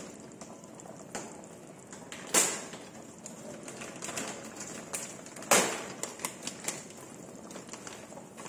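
Coconut milk simmering in a metal pot, its bubbles popping in irregular small ticks, with two louder pops about two and five and a half seconds in.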